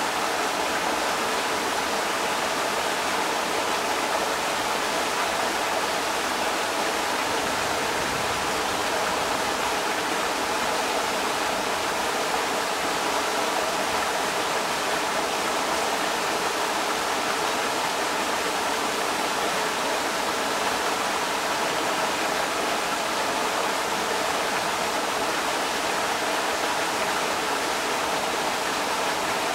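Creek water rushing over rocks, a steady, even rush with no change in level.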